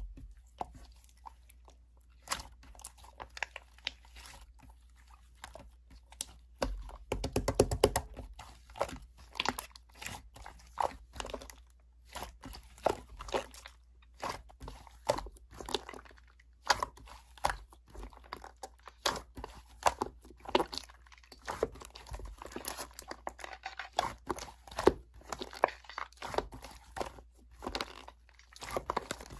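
Slime being squished and pressed by hand, giving irregular sticky clicks, pops and crackles, with a fast run of pops about seven seconds in.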